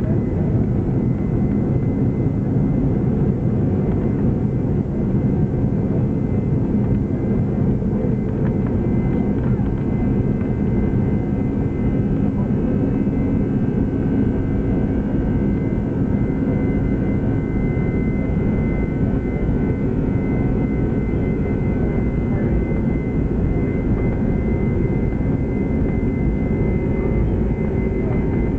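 Boeing 747-400 jet engines heard inside the upper-deck cabin at high takeoff thrust: a loud, steady rushing noise with a high fan whine that has just risen and now holds steady.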